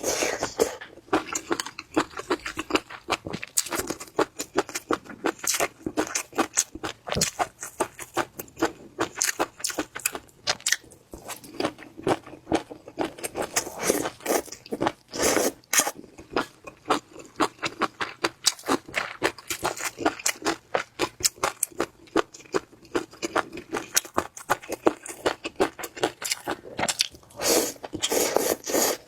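Close-miked eating of spicy marinated shrimp: rapid, irregular crunching and wet chewing, with louder clusters of bites now and then.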